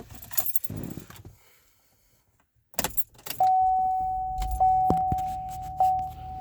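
Keys jangling for about a second, then a few clicks, and from about halfway in a car's steady single-pitch warning tone sounds continuously over a low rumble.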